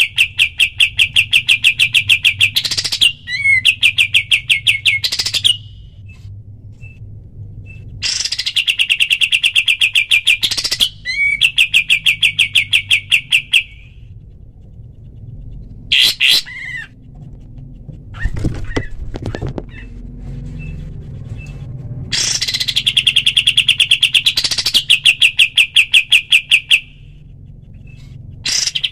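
Kapas tembak songbird singing its rapid rattling trill: fast strings of sharp, evenly repeated notes, about eight a second, each burst lasting several seconds with pauses between. Short chirps sound in the gaps.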